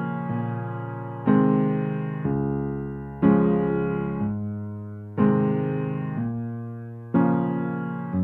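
Slow, soft piano music: a chord is struck about every two seconds and left to fade before the next.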